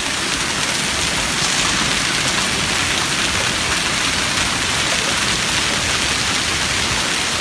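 Heavy hail, stones about the size of golf balls, pelting down with rain: a steady, dense noise that does not let up.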